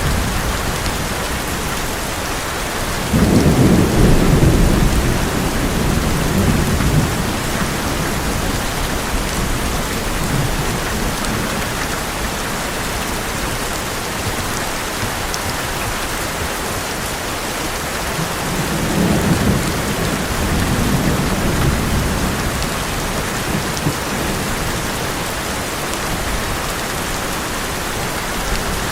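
Heavy rain drumming steadily on an old metal roof, with a loud thunder rumble breaking in suddenly about three seconds in and fading over a few seconds, and a second, weaker rumble past the middle.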